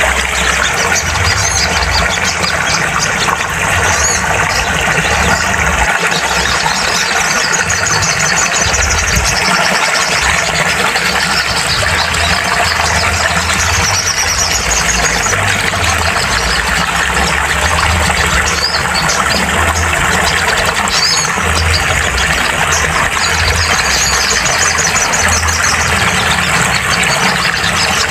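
Sogon (little spiderhunter) song: repeated high, rapid trills and chirps over a steady low hum and hiss, played as a therapy recording to coax a silent bird into singing.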